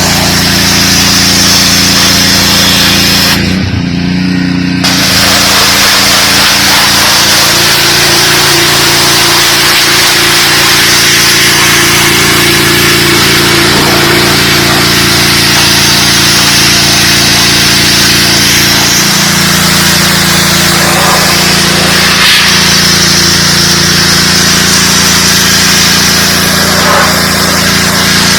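Dewalt 3600 psi gas pressure washer running: a steady engine hum under the loud hiss of the high-pressure spray. About three and a half seconds in, the spray stops for a second or so and the engine note shifts, then the spray starts again.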